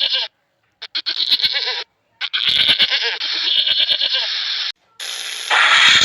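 Farm animal bleating in a series of short wavering calls, each cut off sharply by edits, with brief silences between them.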